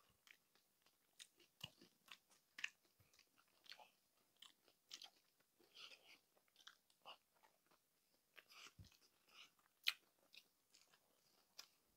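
Faint chewing and biting of crispy pata, deep-fried pork leg, with irregular small crunches and clicks from the crisp skin. A sharper crunch comes near the end.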